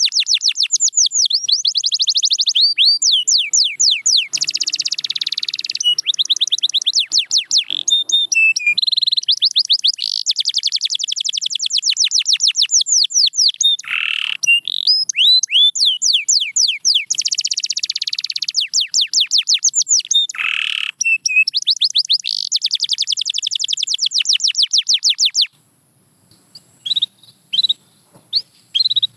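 Domestic canary singing a long, loud song of fast trills of repeated high notes, broken by a few lower sweeping notes. The song stops near the end, leaving only a few short notes.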